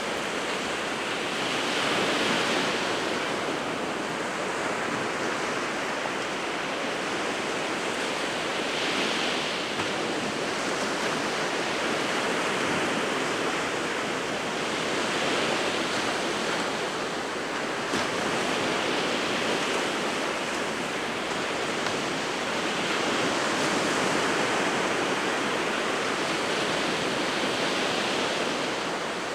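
Winter surf on the Sea of Japan: a steady wash of breaking waves that swells and eases every several seconds, with a little wind.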